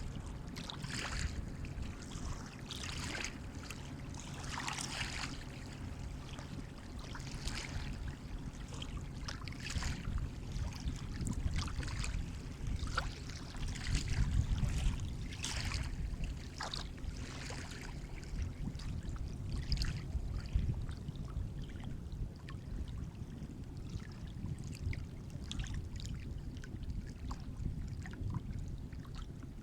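Sea water lapping and splashing: a steady low wash of waves with many small splashes on top, swelling a little about halfway through.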